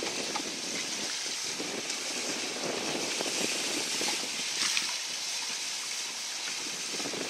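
Water rushing and splashing along the hull of a sailboat under way, a steady hiss with fine crackle.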